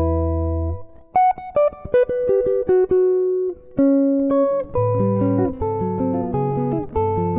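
D'Angelico NYS-1 archtop jazz guitar played solo through its pickup, heard dry. A ringing chord gives way about a second in to a quick run of single melody notes, then a held note. From about halfway it moves to chord-melody playing, with chords over a moving bass line.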